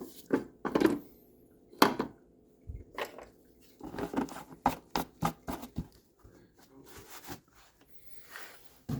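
Irregular clicks, knocks and short scrapes of tools and parts being handled, some strikes sharper than others, with a soft rustle near the end.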